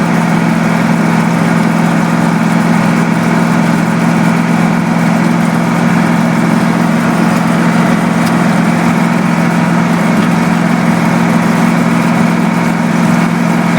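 Caterpillar 3208 V8 diesel of an old Ford truck running at a steady pitch under load while the truck drives along, a loud, even drone heard from inside the cab.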